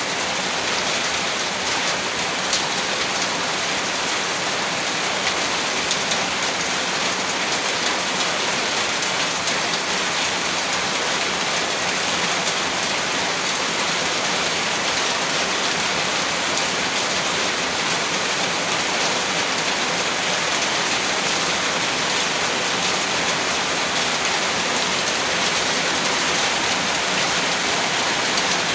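Heavy rain falling steadily, a dense even hiss of drops on a surface with a few faint individual drop ticks.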